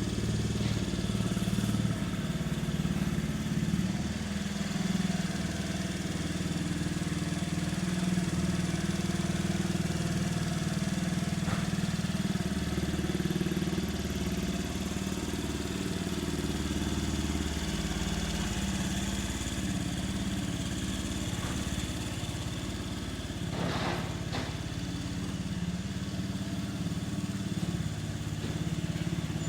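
Honda Dunk 50 cc scooter's single-cylinder four-stroke engine idling steadily through an aftermarket exhaust, with a brief rush of noise a few seconds before the end.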